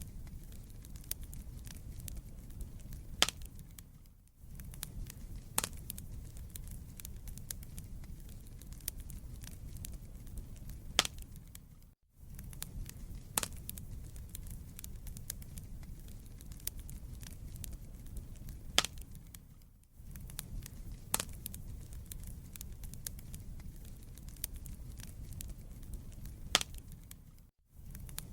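Wood fire burning in a fireplace: a steady low rumble with constant small crackles and a louder pop every few seconds. The sound briefly dips out about every eight seconds.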